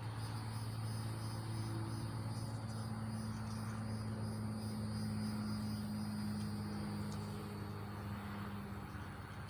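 Insects trilling steadily over a low, steady hum. A slightly higher hum joins about two seconds in and fades near the end.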